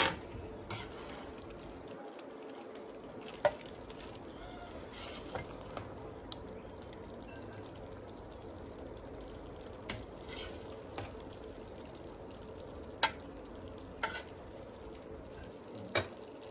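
Chicken wings in sauce sizzling steadily in a wok over a wood fire, with a metal ladle stirring and scooping and clinking sharply against the wok and a steel bowl about five times.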